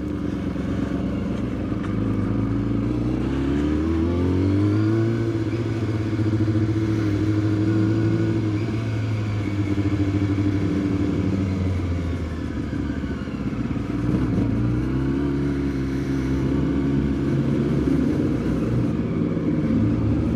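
Sport motorcycle engine running at low road speed. Its pitch climbs about three to five seconds in and holds steady, then eases off around twelve seconds and picks up again a couple of seconds later.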